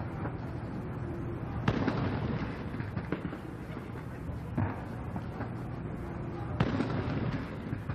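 A series of deep explosive bangs at irregular intervals, each trailing off in a rumble. The two loudest come about two seconds in and near the end, over a steady outdoor background.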